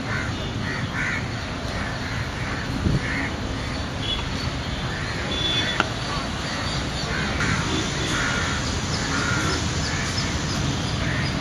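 A bird calling over and over in short calls a few a second, in a run at the start and again from about seven seconds in, over a steady low background rumble. A single sharp knock comes just before six seconds in.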